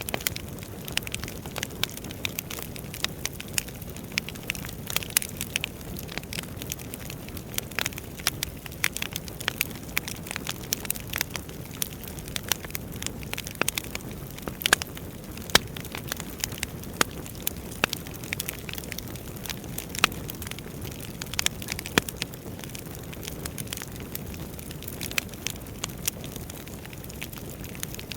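Wood fire burning in a fireplace: irregular sharp crackles and pops over a steady low hiss of flame.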